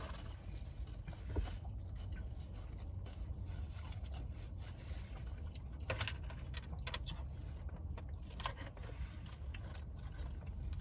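Low steady rumble with a few faint, scattered clicks and rustles.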